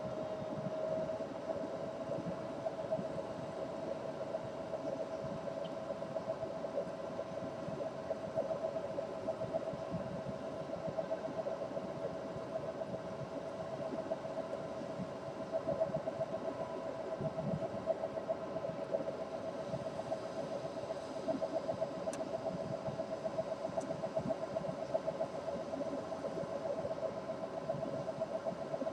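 Steady mechanical hum with a fluttering mid-pitched tone, like a running motor.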